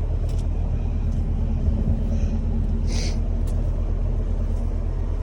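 A vehicle engine idling steadily, heard as an even low rumble, with a short hiss about three seconds in.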